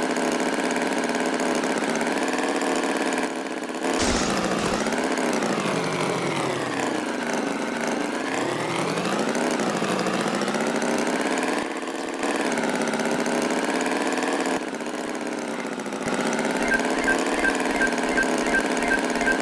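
Cartoon tractor engine sound effect running and revving, its pitch rising and falling, broken by several abrupt cuts. Near the end a steady beat of clicks and low thumps comes in.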